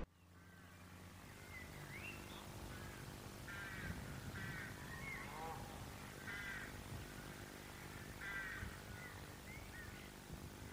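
Faint bird calls, a string of short harsh calls repeated every second or so, over a low steady hum and hiss.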